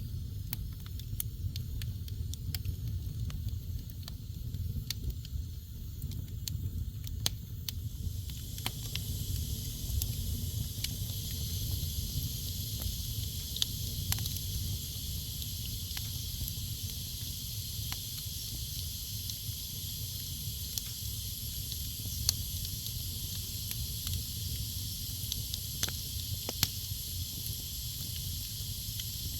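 Wood fire burning in a fireplace: a low rumble of flames with sharp crackles and pops at irregular moments, one louder pop in the latter half. From about eight seconds in a steady high hiss joins and stays.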